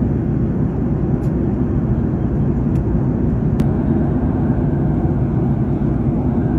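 Airliner cabin noise in level cruise flight: a steady, even rumble of engines and rushing air, heaviest in the low end. A few faint clicks sound over it in the first half.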